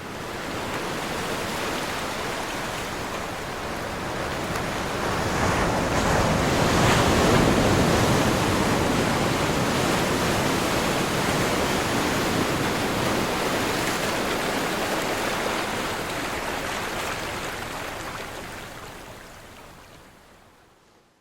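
Ocean surf: a continuous wash of breaking waves that swells to its loudest about a third of the way in, then slowly fades out near the end.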